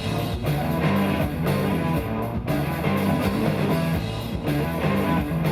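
Live rock band playing an instrumental stretch between vocal lines: guitar to the fore over a steady drum beat.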